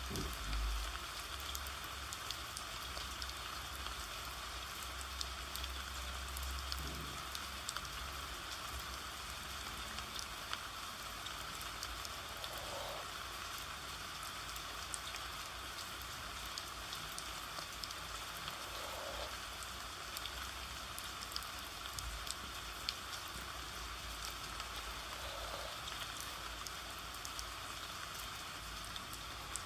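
Steady rain, an even hiss of rainfall with many small drop ticks scattered through it. A low rumble sits under it for the first several seconds.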